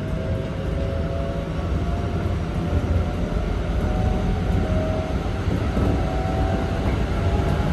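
Keikyu 1500 series (1700 subseries) train running, its Toyo GTO-thyristor VVVF inverter giving a few steady tones that drift slowly in pitch over the rumble of wheels on rail.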